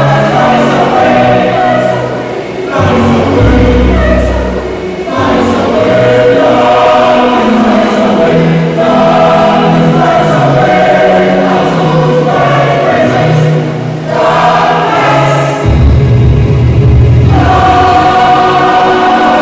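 A choir singing in several parts, in phrases a few seconds long, with strong deep bass notes twice.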